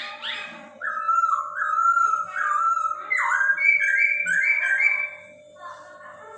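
Chinese hwamei (poksay hongkong) singing a run of clear whistled notes that step upward in pitch, starting about a second in and easing off near five seconds. A steady low hum runs underneath.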